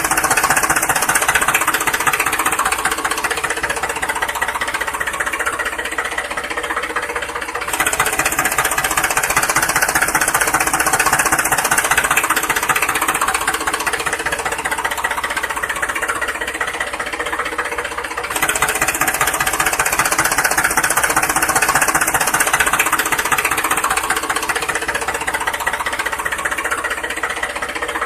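An engine or motor running steadily with a rapid, even knocking rattle, with abrupt changes in level about a third and two thirds of the way through.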